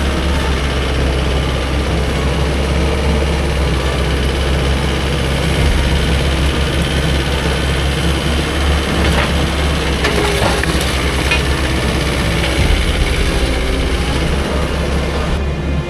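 Portable sawmill's gas engine running steadily, with a few short clicks and knocks about nine to eleven seconds in.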